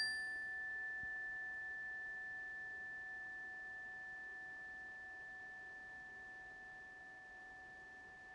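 A hand chime's ring dying away after a single strike: a steady high tone over a fainter lower one, slowly fading.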